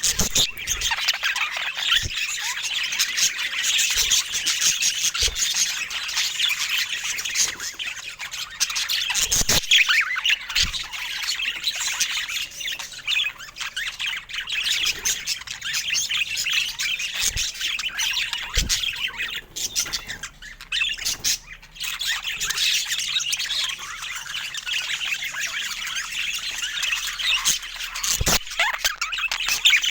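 Budgies chattering and chirping continuously in a busy, high-pitched warble, with a few sharp clicks now and then.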